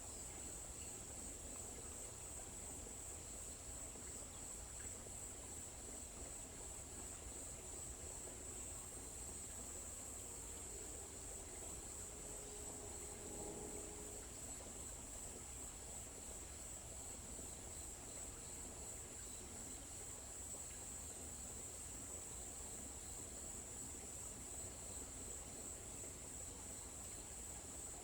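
Faint, steady, high-pitched insect chorus: a continuous trill of crickets or similar insects that does not change.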